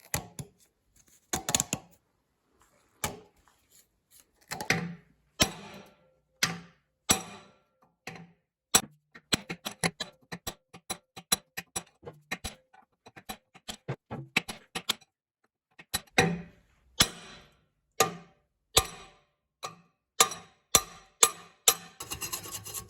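Repeated hammer blows on metal, each with a short ring. They come irregularly at first, then several a second through the middle. They are driving the cylinder liner out of a Changchai L24 diesel's block.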